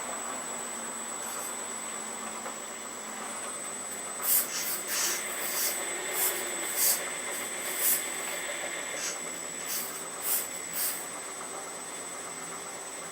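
Hydraulic pump of an Earth Digger 4200XL RC excavator running with a steady high whine. From about four seconds in there are about ten short hissing bursts as the hydraulics are worked, then the whine cuts off just after the end.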